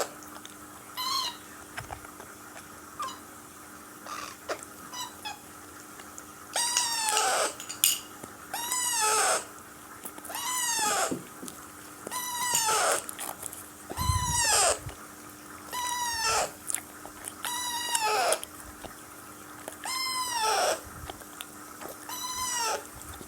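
Young Alexandrine parakeet's food-begging calls while being hand-fed: short faint chirps at first, then a long call about every two seconds, each rising and falling in pitch. The calls signal hunger.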